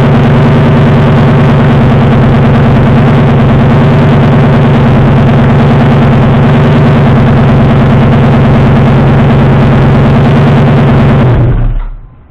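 Lamborghini Gallardo V10 exhaust idling at a steady pitch, recorded right at the tailpipes. It is shut off about eleven and a half seconds in, and the sound dies away within half a second.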